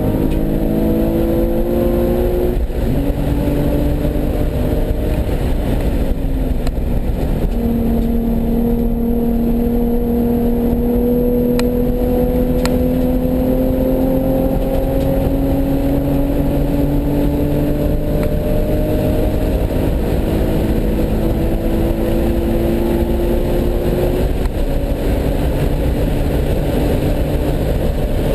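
Nissan 370Z's 3.7-litre V6 pulling hard on track, its pitch climbing through the revs and dropping back at gear changes about two and a half and seven and a half seconds in, then a long slow climb that gives way near the end, over steady tyre and road noise.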